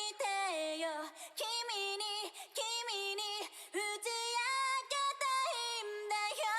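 Music: a woman's voice singing a melody alone, with no band behind it.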